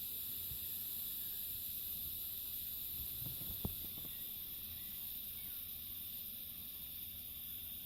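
Cicadas buzzing in a steady, high-pitched chorus, with a soft knock about halfway through.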